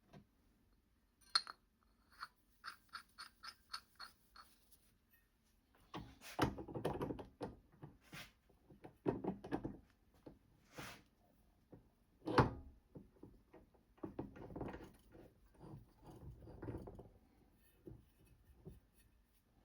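Metal tools and small parts being handled at a workbench: a few sharp clicks, a quick even run of light ticks, then heavier knocks and rattles, the loudest one about twelve seconds in.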